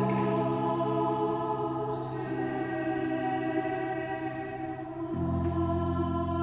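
Choir singing long held chords, the lower parts moving to a new chord about five seconds in.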